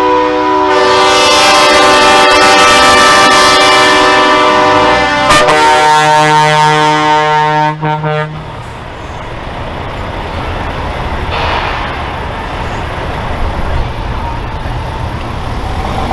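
Truck air horns blasting several notes at once, held for about eight seconds with the chord changing twice, then cutting off. After that comes a lower, steady rumble of truck engines.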